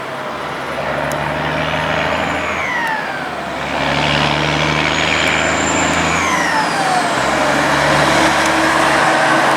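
Heavy-haulage prime movers' diesel engines working hard under load on a climb, with a high whistle that rises and falls about three times.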